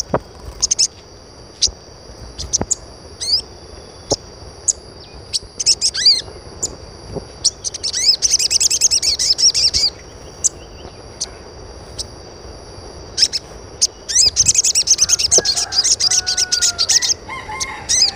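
Birds chirping: quick high-pitched chirps and trills, in two busy bursts, over a steady high tone.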